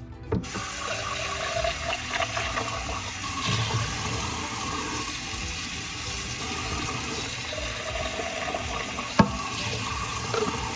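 Water running steadily from a tap, switched on abruptly at the start. A single sharp click about nine seconds in.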